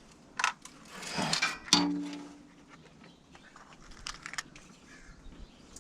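Metal tools and small parts clinking and rattling as they are handled and rummaged through, with a few sharp clicks and a brief low hum about two seconds in.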